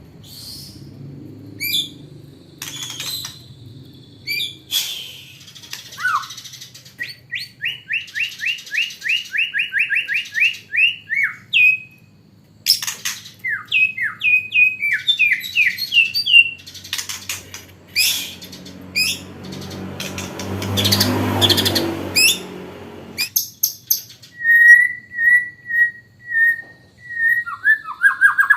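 White-rumped shama singing a varied song: runs of quick repeated chirps about three or four a second, falling whistled sweeps and a steady chattering trill, a song filled with learned calls of the blue-crowned hanging parrot. A few seconds of hissing noise sound about two-thirds of the way through, over a faint low hum.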